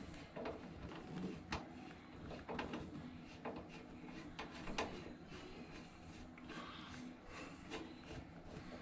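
Faint handling noises: light clicks, knocks and rubbing scattered irregularly throughout, with a sharper knock about a second and a half in and another near five seconds.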